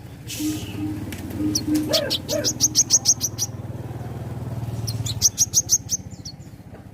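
Small caged songbird giving quick runs of high, sharp chirps, two bursts of several notes each, over a steady low hum.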